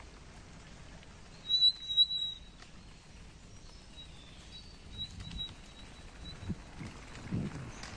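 Birds calling: a loud, high whistled call about one and a half seconds in, then fainter short high notes a few seconds later. Under them, the low rolling rattle of a bicycle on a forest path grows toward the end.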